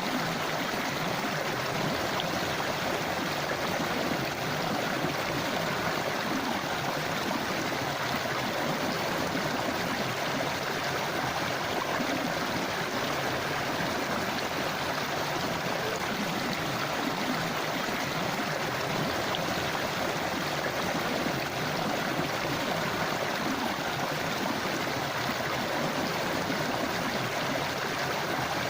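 Forest river or stream flowing over stones, a steady rushing and gurgling of water.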